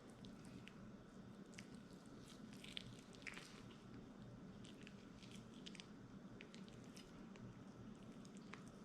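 Faint, wet squishing and small clicks of a sharp knife trimming silver skin from a raw venison roast, over a low steady hum.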